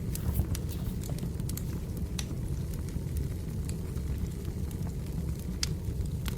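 Burning firewood in a fireplace crackling: irregular sharp pops and snaps, a few a second, over a steady low rumble of the flames.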